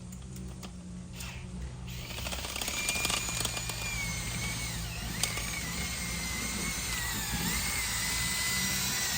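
DeWalt drill spinning a rod-and-brush dryer vent cleaning tool through the vent line; the motor's whine comes in about two seconds in and its pitch wavers up and down as the load changes. A steady low hum runs underneath.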